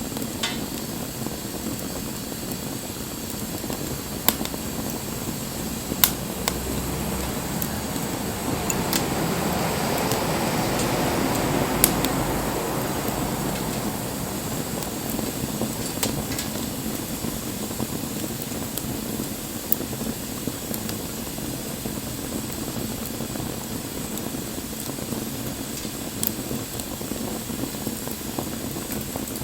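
Wood fire burning with a steady hiss and occasional sharp pops and crackles from the burning wood. A rushing surge of the flames swells for a few seconds around the middle.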